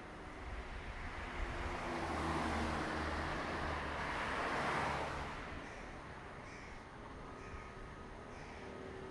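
A vehicle passes with a rush of noise and a low engine hum. It builds, is loudest in the middle and fades about five and a half seconds in. Crows caw repeatedly in the second half.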